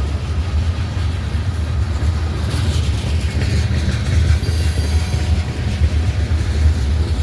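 Train rolling past on the Norfolk Southern line: a steady, loud low rumble of railcars on the track, with brighter rail noise about halfway through.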